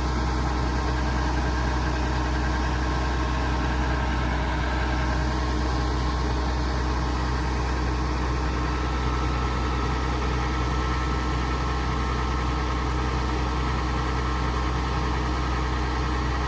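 Kubota DC70pro combine harvester's diesel engine running steadily, a constant low hum with no change in speed.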